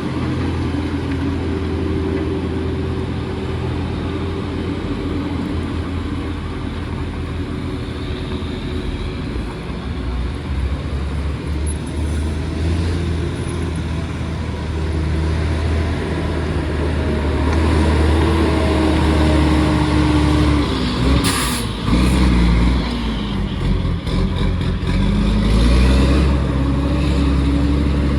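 A heavily loaded truck's diesel engine working on a steep hill, running with a steady deep rumble. Its pitch dips and rises again in the last third, with a short burst of hiss about three-quarters of the way through.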